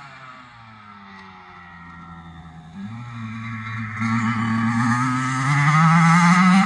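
Kawasaki KX85 single-cylinder two-stroke motocross engine. Its note falls and goes quieter over the first two seconds, then from about three seconds in climbs in pitch and grows steadily louder as it comes back on the throttle.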